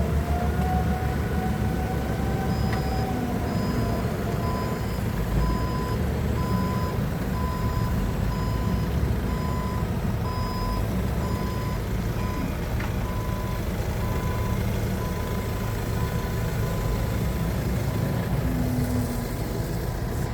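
Forklift's diesel engine running steadily while its reversing alarm beeps about once a second, stopping about three quarters of the way through: the forklift is backing up.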